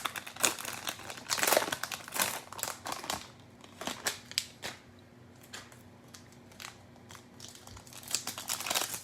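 Cellophane wrapper of a Panini Mosaic football cello pack crinkling as it is handled and opened. It is busiest in the first few seconds, goes sparser in the middle and picks up again near the end.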